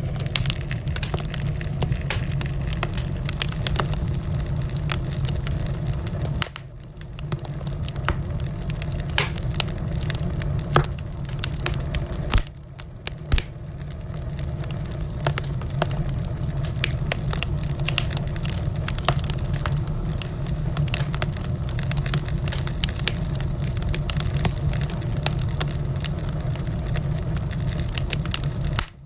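Wood fire burning in a fireplace, crackling with a steady low rumble and frequent sharp pops. A couple of louder pops come around the middle.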